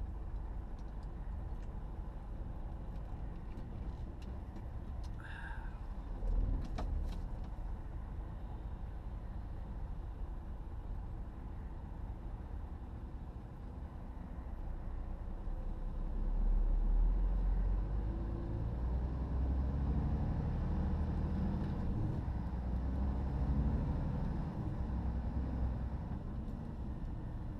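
Road and engine noise of a car driving on a motorway, heard from inside the cabin: a steady low rumble that swells louder for several seconds past the middle, with a couple of brief clicks before that.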